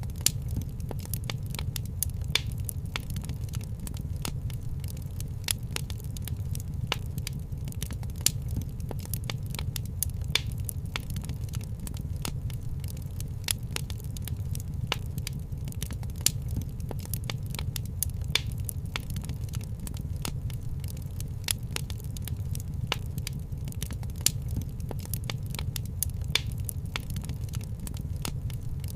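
Fireplace fire crackling: a steady low rumble of flames under constant small crackles, with sharper pops about every two seconds.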